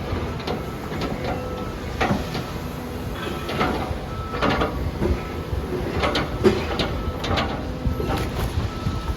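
Demolition excavator working: a steady engine rumble with irregular crunches, scrapes and knocks of breaking masonry and debris, coming every half second to a second and a half.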